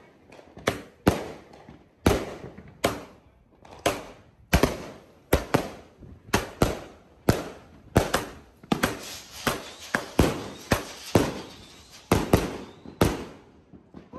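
Consumer multi-shot firework cake firing a rapid run of aerial shots: more than twenty sharp bangs, about one to two a second, with crackling in the middle of the run. The shots stop about a second before the end.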